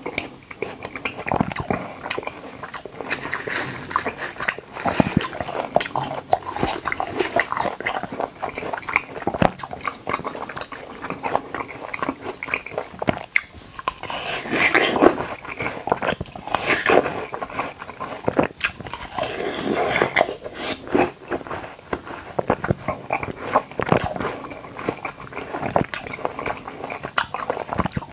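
Close-miked mouth sounds of a person eating watermelon and konjac jelly: continuous wet chewing, smacking and squelching, with louder clusters as fresh spoonfuls go in.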